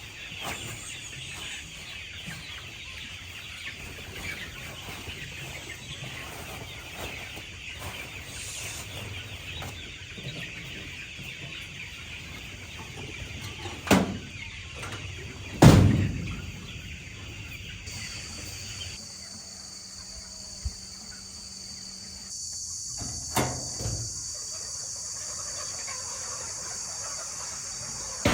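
A flock of chickens clucking and chattering, with two loud knocks about halfway through. In the last third the clucking fades and a steady high hiss takes over.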